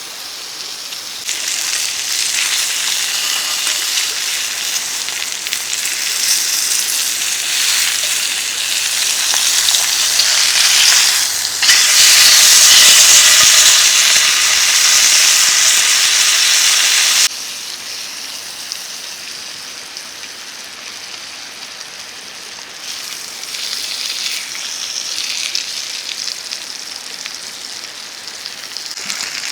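Food sizzling and frying in a pan over a campfire, a dense crackling hiss that starts about a second in, grows loudest in the middle, drops off suddenly, then swells again near the end.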